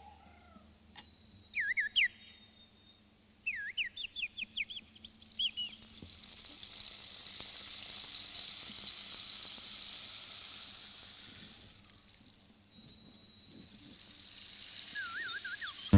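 Rainforest soundscape: quick warbling bird chirps in short bursts, and between them a high hiss that swells up and then fades away.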